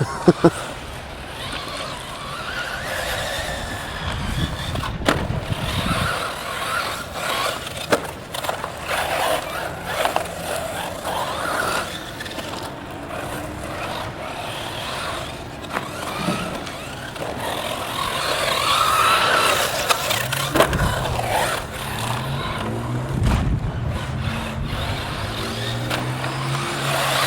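1/8-scale electric RC buggy (Kyosho Inferno MP9 with a Tekin brushless motor) running on a dirt track: a whine rising and falling with the throttle over the rush of tyres on loose dirt, with scattered knocks from landings and impacts.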